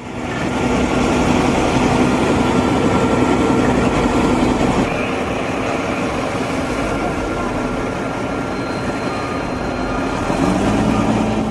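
Heavy vehicle engine running steadily with a continuous drone, its pitch lifting slightly near the end.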